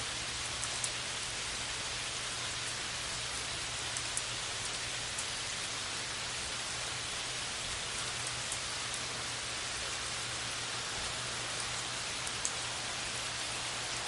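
Steady rain falling: an even hiss of rain on a surface, with now and then a sharper tick of a single drop.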